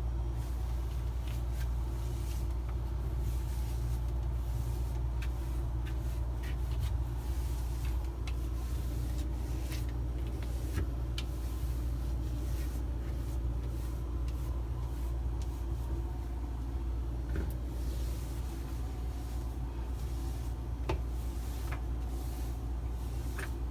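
Steady low hum with faint, scattered clicks and knocks over it.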